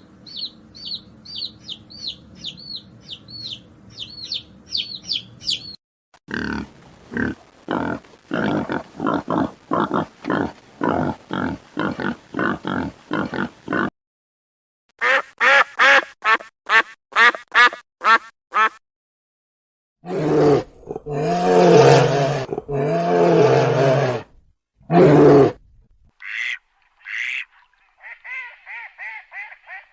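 A string of short animal-call clips cut one after another. First comes rapid high chirping, then steady runs of repeated calls, and then louder, deeper calls from about two-thirds of the way in.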